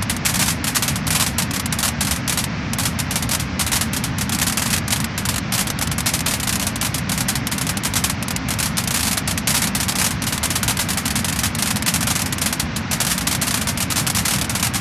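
Wood fire crackling and popping: a dense run of quick crackles over a steady hiss.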